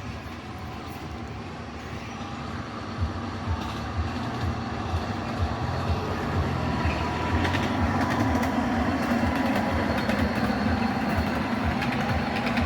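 Miniature ride-on railway train running along its track, a steady rumble with many sharp clicks, getting louder about halfway through.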